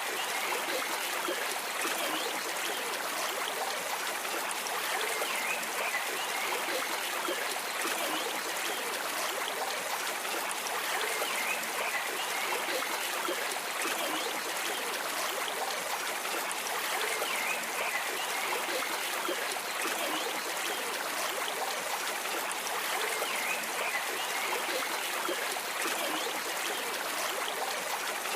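Water flowing in a stream: a steady, unbroken trickling rush.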